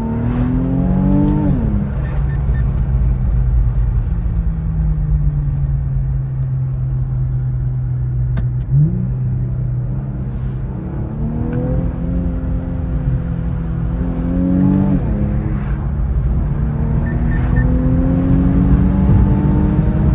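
Infiniti Q50's twin-turbo V6 accelerating through the gears: its pitch climbs, then drops sharply at each upshift, several times, with a stretch of steady cruising in between.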